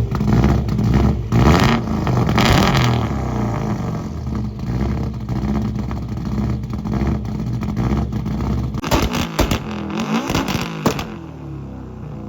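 Group A Subaru Impreza WRX (GC8) rally car's turbocharged flat-four boxer engine being revved in repeated blips, with a burst of sharp pops and quick rises and falls in pitch about nine seconds in, then dropping back to a quieter, steadier run near the end.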